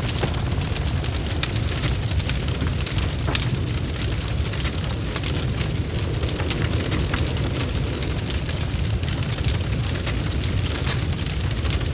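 Wood fire crackling: many quick, sharp pops and snaps over a steady low rumble of the flames.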